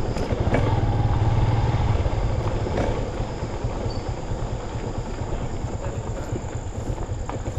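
Motorcycle riding through city traffic: the bike's engine and road noise make a steady low rumble, a little louder in the first two seconds.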